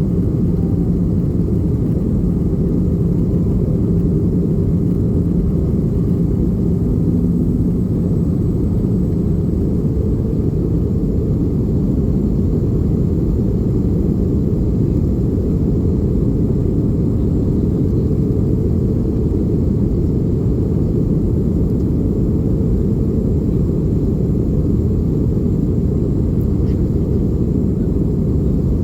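Steady low rumble inside the passenger cabin of an Airbus A320 in flight: engine and airflow noise, unchanging throughout.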